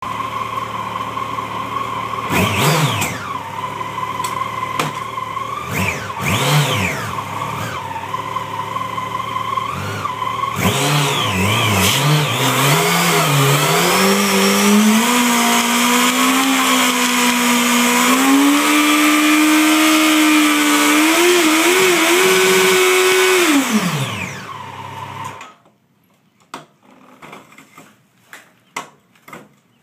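2012 Yamaha FZ8's inline-four engine doing a burnout: idling with two quick blips of the throttle, then held at high revs for about fourteen seconds with the pitch climbing and wavering as the rear tyre spins on concrete, before the revs fall and the engine stops suddenly; a few faint ticks follow.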